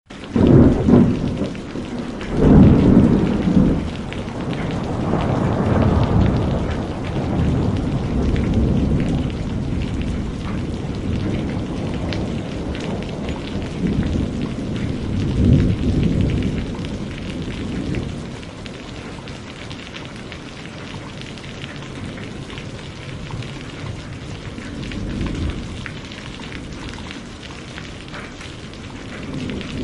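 Thunderstorm: steady rain with repeated low rolls of thunder. The biggest rumbles come in the first few seconds and again about halfway through, and the storm settles into steadier rain in the last third.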